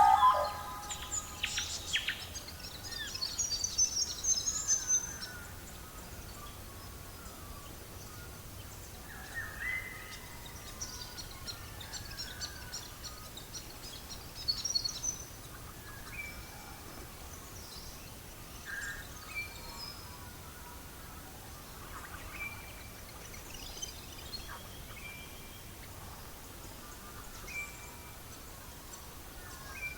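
Wild birds singing and calling: a run of chirping song in the first few seconds, then a short high whistled note repeated about every one and a half to two seconds, among scattered chirps, over a faint steady hiss.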